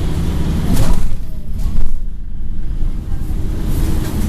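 Scania N113 bus's rear-mounted straight-six diesel engine running under way, heard from inside the bus as a steady low rumble, with brief louder noises about a second in and near two seconds.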